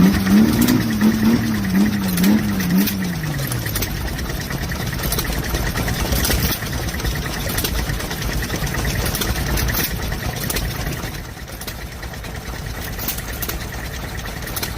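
Lister stationary engine running steadily, a fast even beat. A wavering, voice-like tone rises and falls over it for the first three seconds, and the engine sounds a little quieter from about eleven seconds in.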